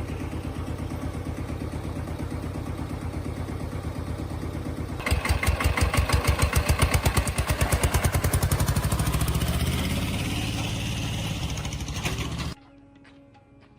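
Old farm tractor's engine running steadily at idle, each firing stroke plainly heard, then revved up louder about five seconds in and slowly easing back down. The sound cuts off abruptly near the end.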